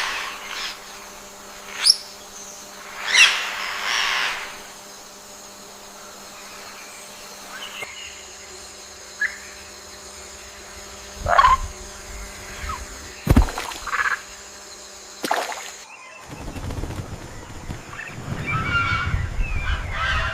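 Rainforest ambience: scattered bird calls, a few of them loud and harsh, over a faint steady hum, with a denser run of chirps near the end.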